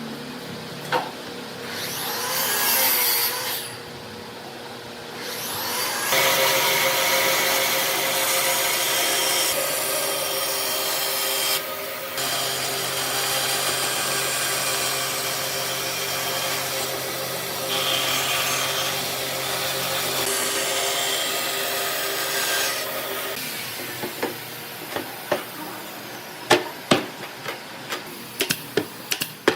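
Electric power tool cutting or working wood, its motor running steadily with a constant hum for about seventeen seconds after a short first burst. Near the end it gives way to a series of sharp wooden knocks and taps.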